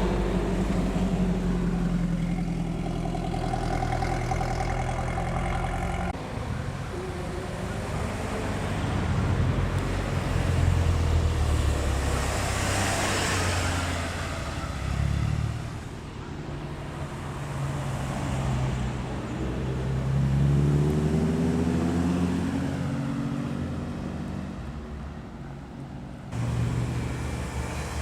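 Japanese cars driving past one after another as they leave, engines running with a rising note as one accelerates about two-thirds of the way through. The sound changes abruptly twice as one car gives way to the next.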